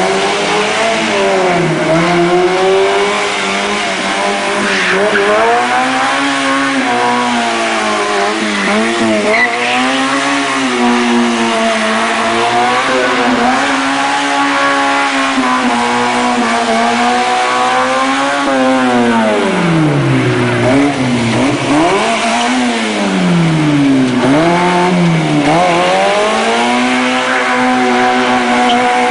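Car engine driven hard through a gymkhana course, revving up and dropping back again and again, its pitch rising and falling every second or two.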